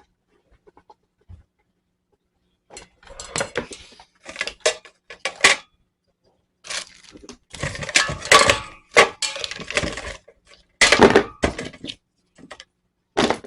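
Plastic parts of a cat water fountain being handled and fitted together: a busy run of sharp clicks, knocks and clatter that starts about three seconds in and is loudest past the middle.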